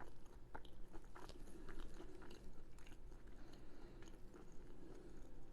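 A person chewing and biting food, with small irregular crunches and wet mouth clicks, quiet and close to the microphone.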